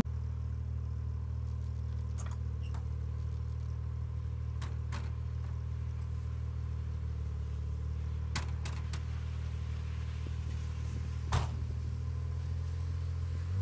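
Mazda RX-7 FC's turbocharged 13B rotary engine idling steadily, with a few light clicks and a car door shutting about eleven seconds in.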